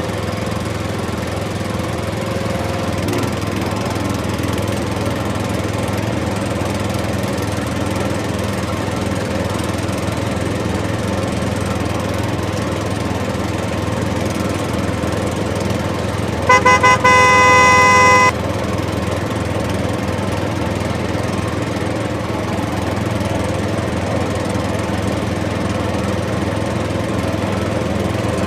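Small motor of a miniature DIY tractor running steadily. A horn sounds for about two seconds past the middle, starting with a few quick toots.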